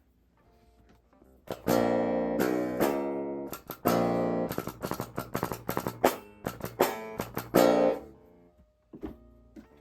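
Solar 27-inch baritone electric guitar with an Evertune bridge and new strings, strummed in a run of chords: a few held chords, then quicker repeated strums, and a single plucked note near the end. Played to check the new string height during setup.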